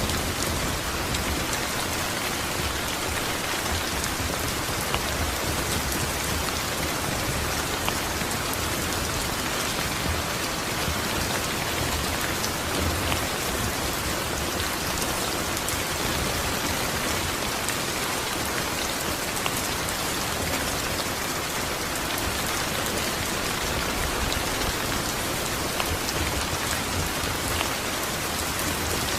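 Steady heavy rain falling, a continuous even hiss with scattered drop patter.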